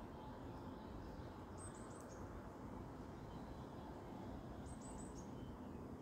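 A small bird calls twice, about three seconds apart, each call a quick run of four or five very high chirps, over a steady low background rumble.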